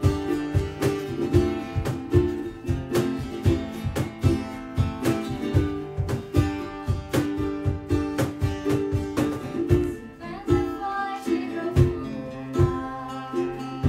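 Live acoustic guitar strumming with a steady beat, playing an instrumental passage of a song; the low beat thins out about ten seconds in.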